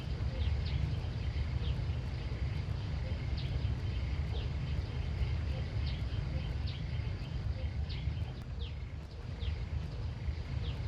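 Outdoor ambience: a steady low rumble with short, high chirps repeating irregularly about once a second.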